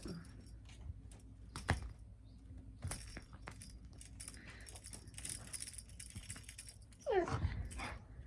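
Pets playing: scattered light knocks, taps and jingling, with one short falling cry from a kitten or dog near the end.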